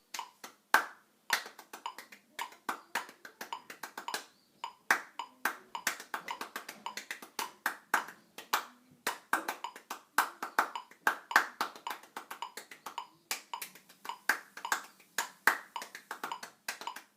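Hands clapping a fast rhythm drill: many sharp claps a second in an uneven pattern, along with a metronome set to 108 beats a minute.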